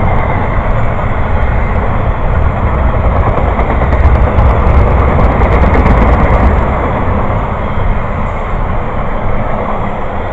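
A train passing, its wheels running on the rails as a steady noise with a strong low end. It is loudest around the middle, with a run of rapid clicks, and it fades toward the end.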